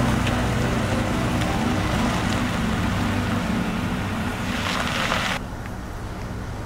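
A Jeep's engine running steadily as it drives up slowly, with a hiss over the top. The sound swells briefly, then drops off suddenly about five seconds in.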